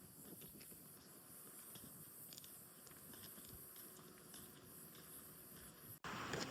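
Near silence: faint outdoor ambience, a low hiss with a few faint ticks. Near the end it cuts abruptly to louder wind buffeting the microphone.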